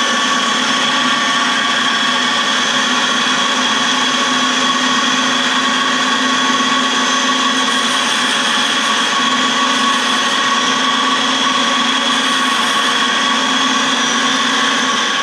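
Wolf valve refacer running: a steady motor whine with a grinding hiss as its stone is run lightly across the face of an old exhaust valve held in the collet, refacing the valve.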